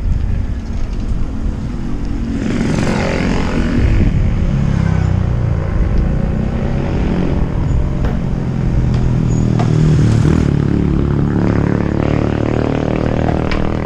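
A motor vehicle's engine running steadily, with a louder rush of noise a couple of seconds in.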